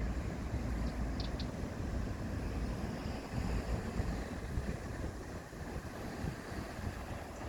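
Wind buffeting the microphone with a low rumble, as heard riding a motorcycle, with a few faint high ticks about a second in.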